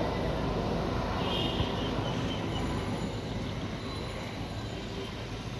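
Aircraft engine noise: a steady low rumble that eases off slowly.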